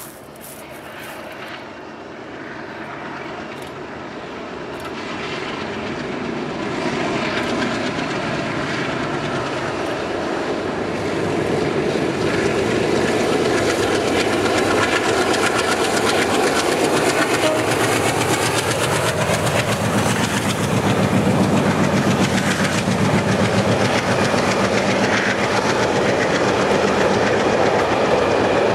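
Diesel-hauled container freight train approaching and passing: the locomotive's engine grows louder over the first dozen seconds, then the wagons roll steadily past with their wheels clattering on the rails.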